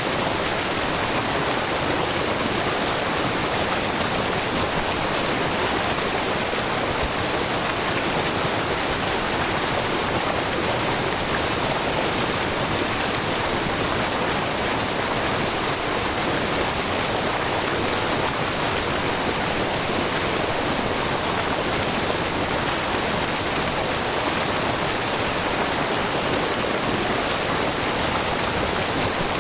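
Steady rush of a wide, low curtain waterfall of spring water spilling over rock, with the splashing babble of the stream below; an even, unbroken wash of water noise.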